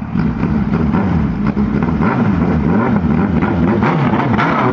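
Suzuki Hayabusa 1300's inline-four engine revved while the bike stands still, its pitch climbing and falling back several times in quick throttle blips.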